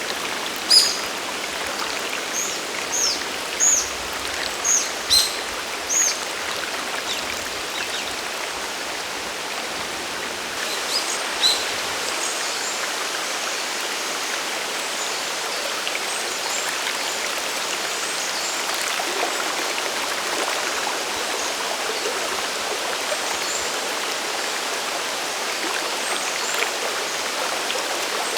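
Waterfall and mountain stream water rushing steadily. A bird calls with short, high chirps through the first six seconds and again briefly about eleven seconds in.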